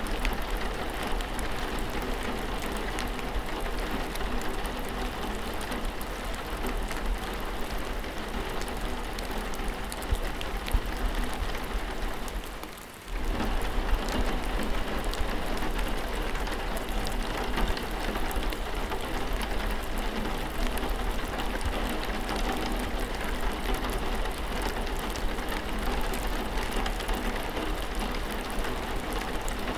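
Steady rainfall, a dense even hiss with scattered individual drops ticking through it. About thirteen seconds in the sound briefly fades down and then comes back.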